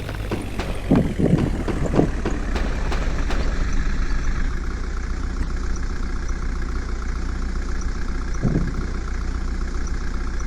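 A vehicle engine idling with a steady low hum, with a few short louder sounds in the first two seconds and one more near the end.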